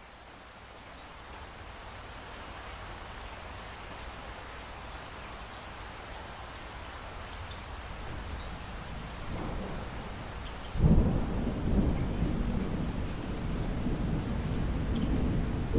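Steady rain hiss, swelling gradually. About two-thirds of the way through, a sudden loud low rumble of thunder breaks in and keeps rolling under the rain.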